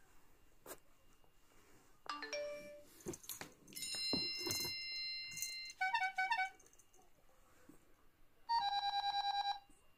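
Edited-in electronic chime sound effects: a rising run of notes about two seconds in, a bright held chime around four to five seconds, a quick twinkle, then a fast repeated beeping near the end.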